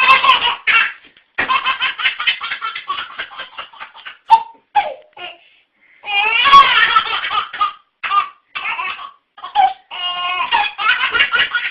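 A young child laughing hard in repeated fits of quick, chopped giggles, with short breaks between the fits.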